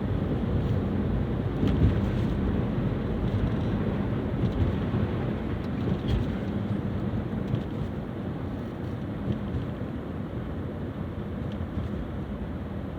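Steady road noise inside a Nissan Juke SUV while driving on snow-covered roads: the engine and tyres give a low rumble that grows a little quieter toward the end.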